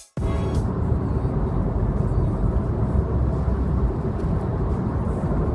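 Steady low rumble of a car driving, heard from inside the cabin: road and engine noise with no breaks.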